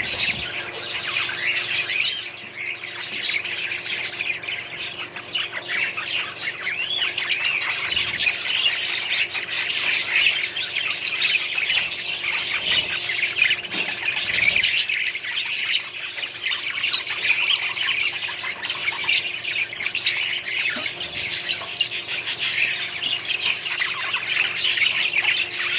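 A colony of budgerigars chattering and squawking continuously, many birds calling over one another at once.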